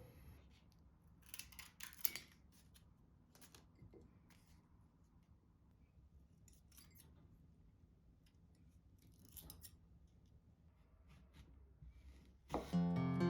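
Scissors snipping, short separate cuts with the loudest cluster about two seconds in, then single snips every few seconds. Acoustic guitar music starts near the end.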